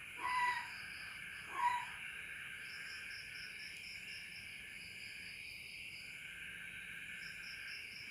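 An owl giving short single hoots, twice in the first two seconds, over a steady night chorus of crickets and insects with pulsing high chirps.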